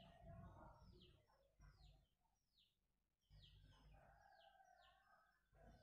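Near silence with faint birds chirping: short, high chirps that fall in pitch, repeated about every half second.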